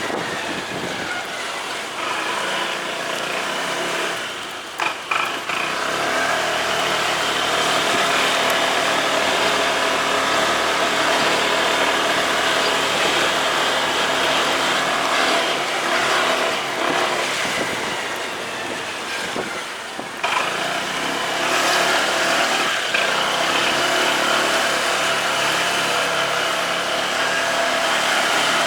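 Motorcycle engine running while riding, mixed with heavy road and wind noise; the sound eases off briefly about five seconds in and again near twenty seconds.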